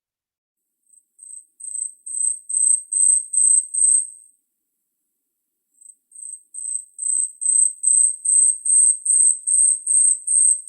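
Asian stubtail singing: two songs of very high, thin, insect-like notes at about two a second, each starting faint and swelling steadily louder, the second starting about six seconds in.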